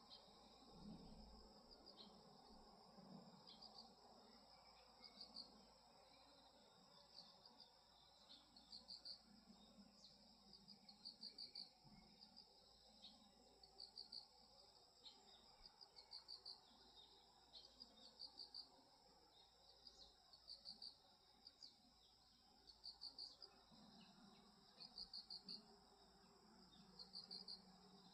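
Faint chorus of crickets and other grass insects calling: a steady high trill with short pulsed chirps repeating every second or two.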